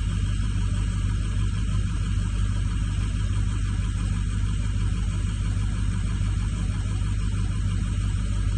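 Ford F450 pickup engine idling steadily after a cold start, a constant low-pitched running sound that does not change.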